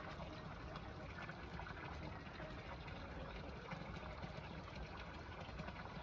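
Steady trickle of running water, with a low rumble beneath it.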